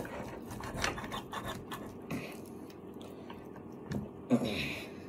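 A person chewing food close to the microphone, with small wet mouth clicks and smacks. A brief voiced 'mm'-like sound comes near the end.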